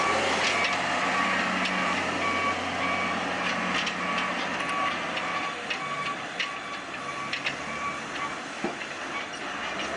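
A vehicle's reverse alarm beeping steadily over a diesel engine running, with scattered metallic clanks. The engine hum drops away about halfway through.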